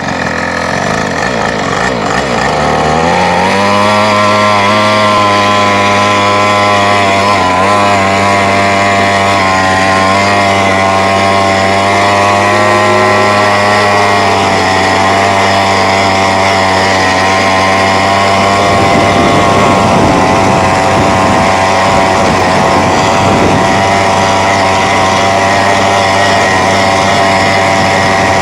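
Stock 49cc two-stroke mini quad engine running. Its pitch climbs over the first few seconds, then holds steady. About two-thirds of the way through, the pitch turns unsteady and wavers.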